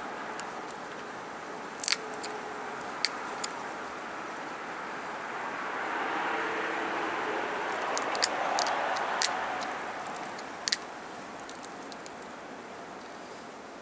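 Pressure flaking on a Rainy Buttes silicified-wood preform: about ten sharp clicks as small flakes pop off the stone, several close together near the middle. Under them runs a steady rushing noise that swells in the middle.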